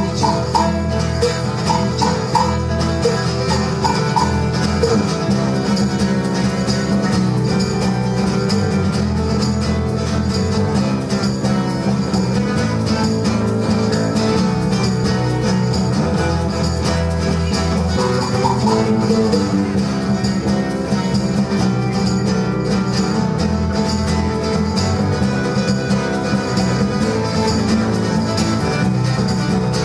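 Live folk-rock band playing an instrumental stretch of a song, with strummed and plucked strings over a steady bass and drums, and no singing.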